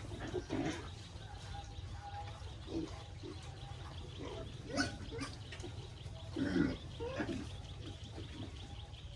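Pigs grunting and squealing a few times, the loudest calls about five and six and a half seconds in, over a steady low hum.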